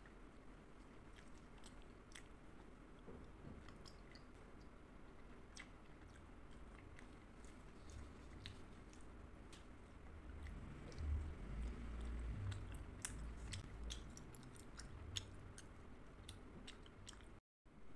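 Faint close-miked chewing of chocolate candies, with small mouth clicks scattered throughout and heavier chewing about ten seconds in. The sound drops out for a moment near the end.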